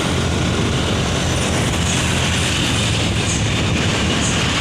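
Heavy truck running close by under throttle: a steady, loud engine with road and body noise, and a few short high squeaks.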